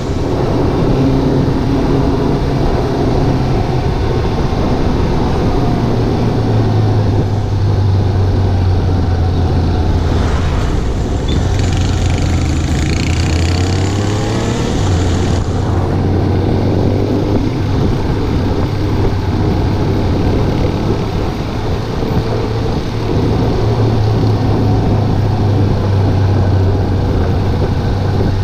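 Suzuki GSX750 inline-four motorcycle engine running while riding, its pitch shifting with the throttle, under heavy wind buffeting on the microphone. For about five seconds in the middle a louder hiss with rising tones joins in.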